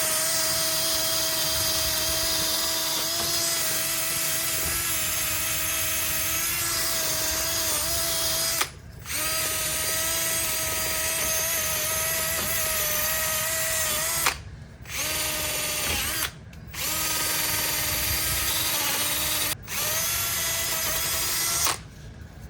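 Power-tool-driven wire wheel scrubbing corrosion off a car's brakes, a steady high motor whine. It breaks off briefly four times as the tool is stopped and restarted, then cuts off near the end.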